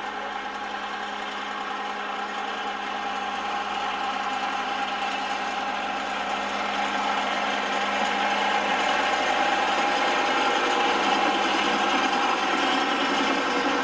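Diesel locomotive engine running steadily at an even pitch, slowly growing louder.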